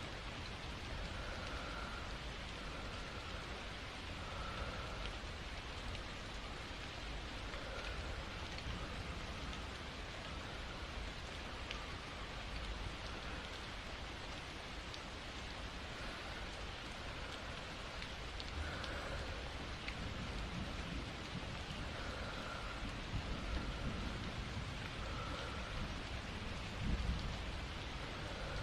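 Steady rain falling, an even hiss of drops, with a few low rumbles near the end.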